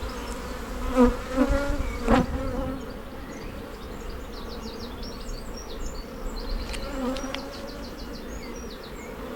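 Honey bees buzzing with a steady hum around an open hive, with a couple of sharp knocks in the first few seconds.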